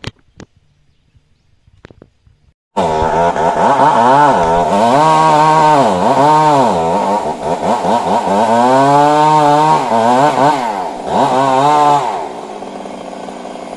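Stihl MS 382 two-stroke chainsaw starting abruptly about three seconds in. Its revs rise and dip repeatedly, then near the end it drops back to a steady, quieter run.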